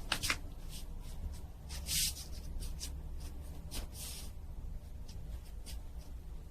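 Light scratching and rustling, a string of short scrapes with a longer hissing scrape about two seconds in, over a low steady hum.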